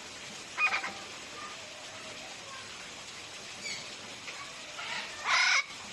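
Birds calling over a steady hiss: a short call about half a second in, faint chirps in the middle, and a louder call near the end.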